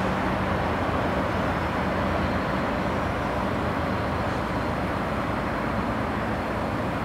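CSX coal train's loaded hopper cars rolling away down the track: a steady rumble of wheel and rail noise that eases slightly near the end as the train pulls away.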